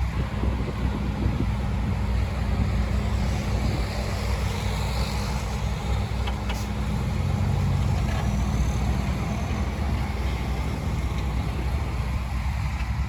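Heavy diesel engine of earthmoving machinery running steadily with a deep, continuous rumble.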